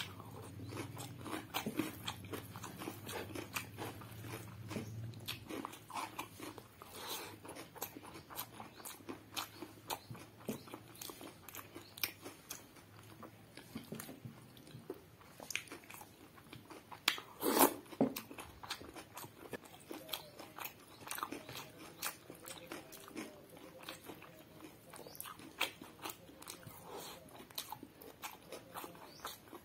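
Close-up chewing and crunching of raw cucumber slices eaten with rice, a steady run of small crisp crunches and mouth clicks. One much louder bite just past the middle.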